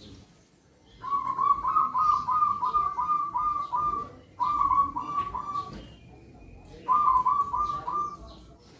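Zebra dove (perkutut) cooing: three phrases of quick, even staccato coo notes, about three a second, the first long and the next two shorter.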